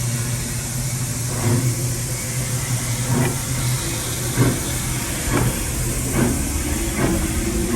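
Steam locomotive pulling away from the station, its exhaust chuffs coming closer together as it gathers speed, over a steady low hum.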